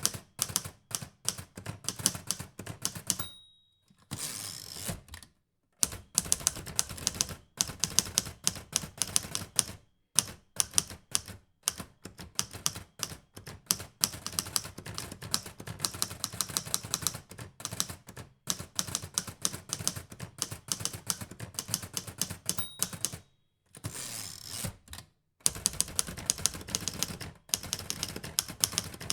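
Typing on a Hermes Baby portable typewriter: a quick, uneven run of sharp key strikes. Twice the typing breaks off with a short ring followed by a brief sliding sound before the strikes resume.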